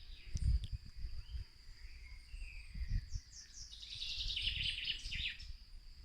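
Forest birdsong: scattered chirping calls, then a quick run of calls a little after three and a half seconds in, over a faint steady high hum and soft low thumps.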